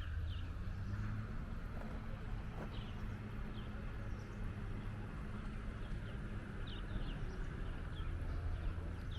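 Outdoor ambience: a steady low engine hum with short, high bird chirps repeating throughout.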